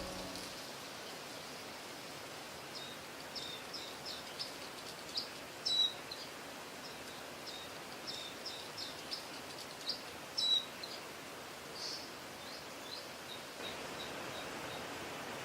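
A small bird calling in a series of short, high chirps, two of them louder, over a steady outdoor hiss.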